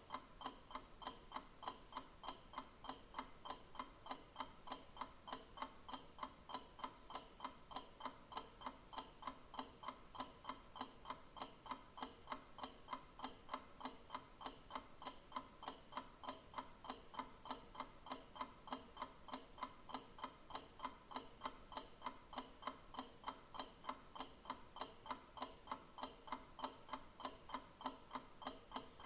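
Mechanical clock ticking steadily, with sharp, evenly spaced ticks at an unchanging rate.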